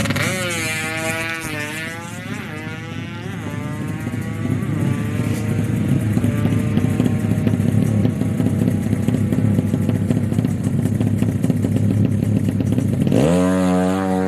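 Drag-racing motorcycle engines: quick revs rising and falling over the first few seconds, then a long steady run at high revs. Near the end another sharp rise in revs starts suddenly.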